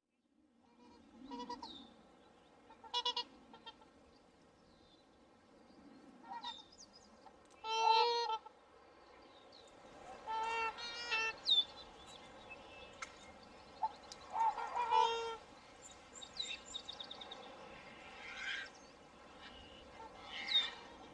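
Swans calling in a flock: a series of short, nasal honking calls, several close together and the loudest about a third and two-thirds of the way through. Thin, high chirps of small birds sound between the honks.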